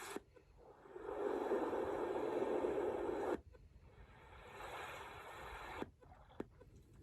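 Hotmoon Cocoon sound machine playing its nature-category sounds in turn, each cutting off abruptly when the next is selected. A rushing noise runs for about two seconds and stops sharply, then a fainter noise follows. A couple of sharp clicks come near the end.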